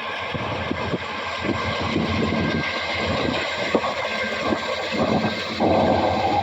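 Norfolk Southern freight train passing, its rolling rumble growing louder, with a louder step about two-thirds of the way through and scattered knocks from the cars. Strong wind buffets the microphone throughout.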